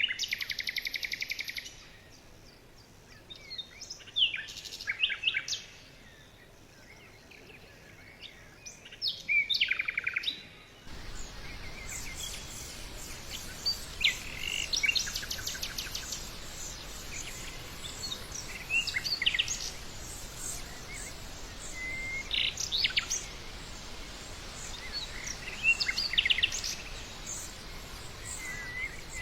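Small birds chirping and calling, with short rapid trills and whistled notes in quick, irregular bursts. About a third of the way in a steady background hiss comes up under the calls.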